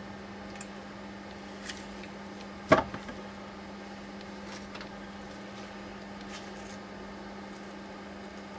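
A single sharp clank of a metal part, likely a steering-rack part being handled during disassembly, about three seconds in, ringing briefly, with a few lighter clicks before and after, over a steady low hum.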